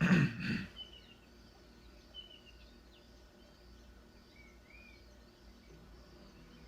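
A brief loud burst of sound in the first second, then a quiet natural background with a few short, scattered bird chirps.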